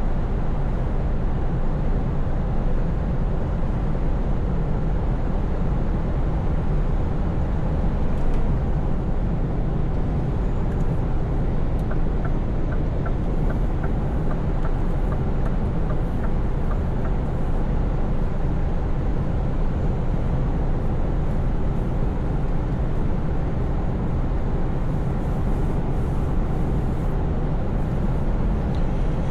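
Scania V8 truck engine running steadily at cruise, a constant low drone under tyre and road noise. About twelve seconds in, a run of light, evenly spaced ticks lasts for about five seconds.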